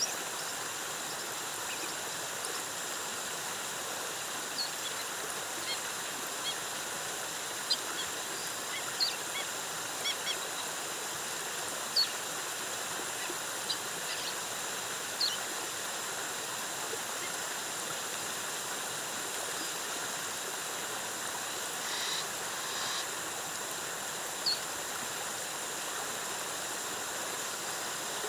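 Steady rush of a rainforest waterfall, with short high bird chirps scattered over it every second or two and a thin steady high tone.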